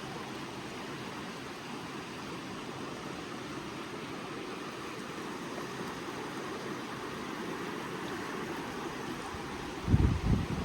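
Creek water rushing steadily. About ten seconds in, gusts of wind buffet the microphone with low rumbles.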